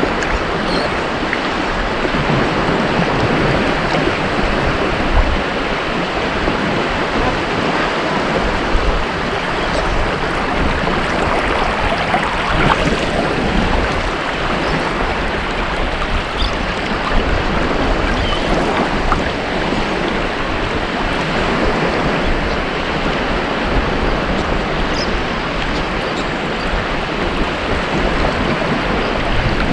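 Ocean surf washing continuously onto a beach: a steady, dense rush of breaking waves with no distinct lulls.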